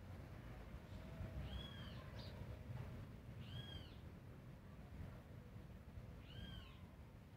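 An animal's short call that rises and falls in pitch, heard three times about two to three seconds apart, over a steady low outdoor rumble.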